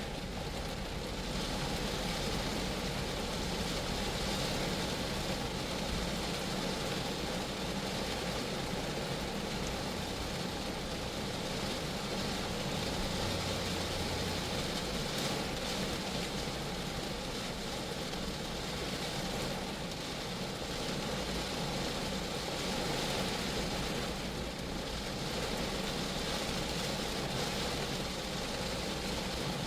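Rain falling steadily on a Geo Metro car, an even hiss of drops with no separate beats.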